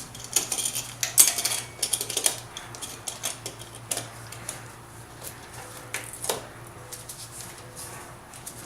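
Metal hand tools clicking and clinking against metal parts while the lower radiator hose and its clamp are being worked off. The clicks come in a quick cluster over the first couple of seconds and then turn to scattered taps, over a low steady hum.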